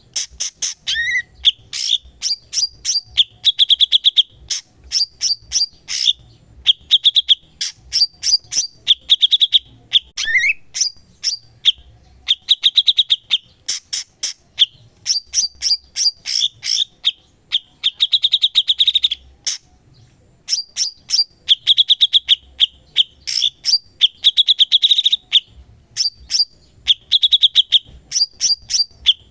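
Cucak cungkok singing vigorously without pause: rapid runs of sharp, high chirps alternating with fast buzzy trills, and now and then a quick upward-sweeping note.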